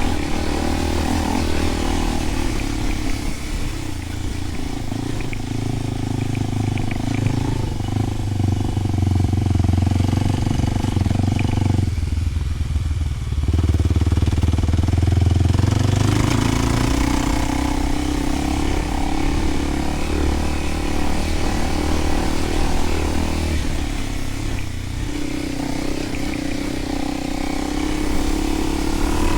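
Kawasaki KLX300's single-cylinder four-stroke engine running through a Delkevic 10-inch oval slip-on exhaust. Its note shifts up and down several times as the throttle changes, with a clear rise in pitch near the end.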